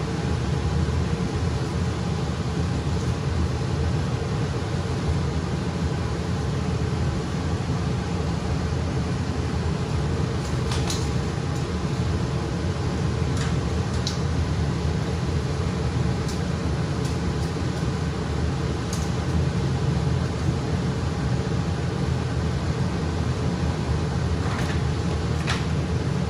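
Furnace blower running, a steady rush of air with a low hum. A few light clicks and taps come in about halfway through and again near the end.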